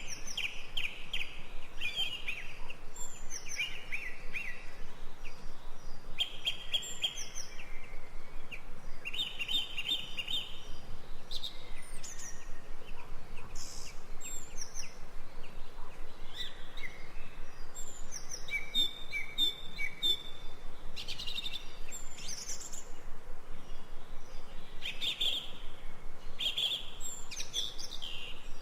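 Songbirds chirping and trilling in short, repeated phrases over a steady background hiss.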